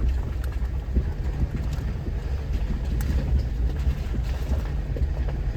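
Off-road 4x4 running slowly in four-high over a rocky trail, a steady low engine and drivetrain rumble with scattered small knocks and rattles from the rocks and the body.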